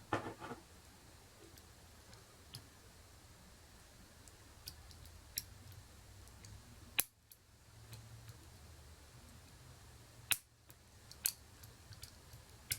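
Faint, scattered metallic clicks of a pick and tension wrench working the pins of a pin-tumbler lock, which the picker believes holds spool pins. Two sharper clicks stand out, about seven and ten seconds in.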